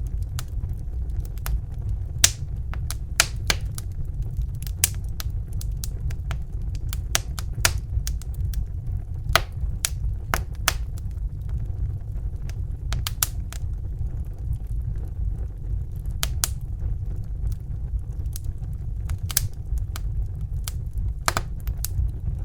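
Crackling fire: irregular sharp pops and snaps, a few each second, over a steady low rumble.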